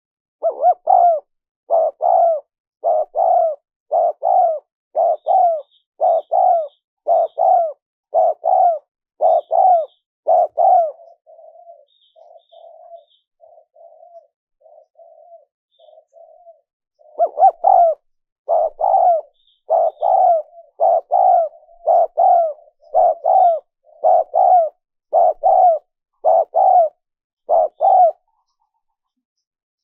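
Spotted dove cooing: a fast, even series of loud coo notes, about one and a half a second, that drops to softer, shorter coos about ten seconds in and returns to full strength about seven seconds later, stopping shortly before the end. Faint high chirps sound now and then above the coos.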